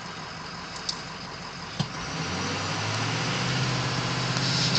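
2005 Ford F-350 pickup's engine heard from inside the cab, idling with a couple of faint clicks, then pulling away in four-wheel drive about two seconds in, its steady drone slowly growing louder as the truck picks up speed.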